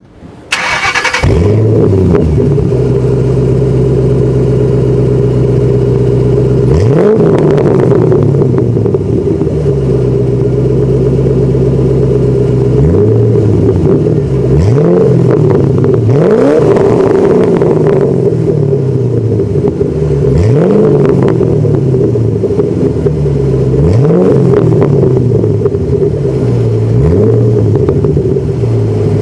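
2008 Ford Mustang GT's 4.6-litre V8 started through a Borla Stinger S-Type axle-back with a Pypes X-pipe. It cranks and catches about a second in, settles to a steady idle, then is blipped about eight times, each rev rising sharply and falling back to idle.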